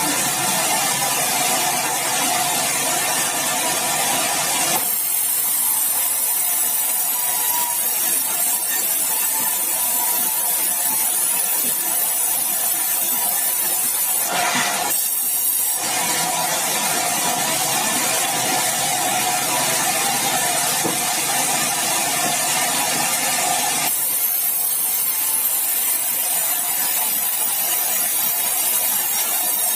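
Sawmill running, its saw cutting through a meranti log with a steady noisy hiss over a droning motor. The sound changes abruptly several times, about five seconds in, briefly in the middle and near the end.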